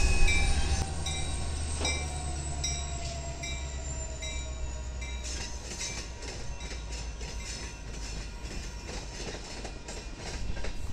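Freight train rolling past a level crossing: a steady low rumble with the clicking of wheels over rail joints, growing busier about halfway through. A crossing bell rings steadily in the first few seconds.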